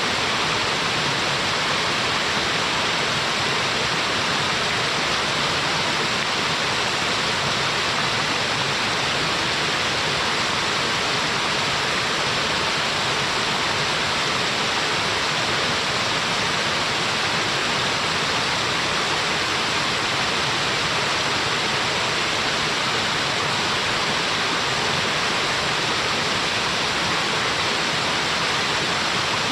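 Small waterfall, water falling and splashing in a steady, even rush with no breaks.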